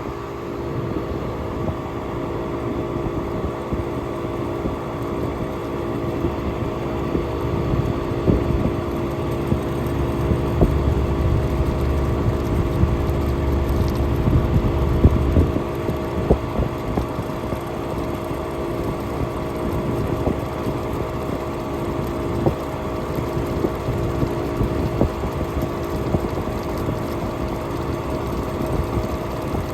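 1967 Chrysler Airtemp Imperial air conditioner running: a steady electric hum from its compressor and fan. A louder low rumble swells in the middle and drops away about halfway through.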